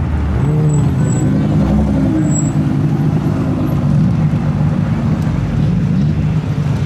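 Nissan GT-R's twin-turbo V6 driving past at low speed and pulling away. The engine note rises and dips with the throttle in the first couple of seconds, then runs steady.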